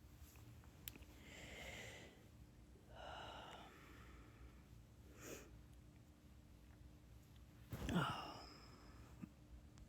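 A person's breathing close to the microphone: a few soft breaths and a louder, short breathy sound about eight seconds in, over faint room tone.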